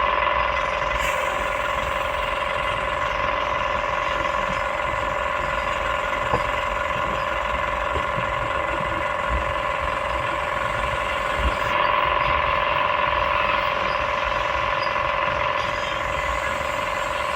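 Excavator's diesel engine running steadily with a steady whine over it, swelling slightly about twelve seconds in.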